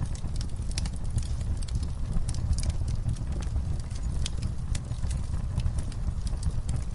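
Campfire crackling: irregular sharp snaps and pops of burning wood over a steady low rumble of the fire.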